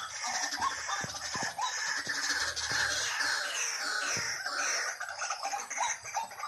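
White-breasted waterhen calls, as used on a recording played to lure the birds: a dense, continuous run of repeated clucking and croaking notes, some of them sweeping downward in pitch.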